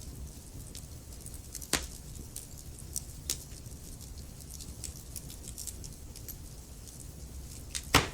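Wood fire burning with a low steady rumble, crackling and popping irregularly, with sharper pops about two seconds in and again near the end.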